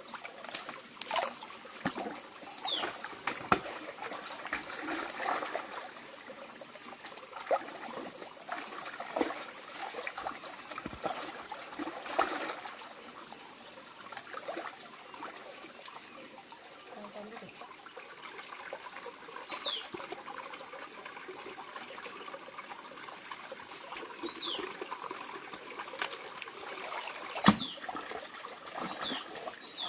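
Water trickling steadily, with scattered clicks and rustles. A bird gives a short falling whistle about five times, mostly in the second half.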